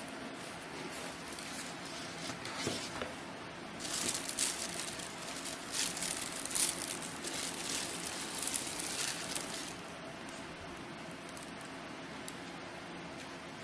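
Packaging being handled during an unboxing, with irregular rustling and crinkling that is busiest from about four to ten seconds in, over a steady low room hiss.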